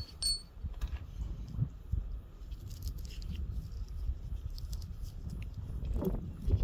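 Light clicks and knocks of hands slowly turning a Briggs & Stratton mower engine over by hand, over a low rumble.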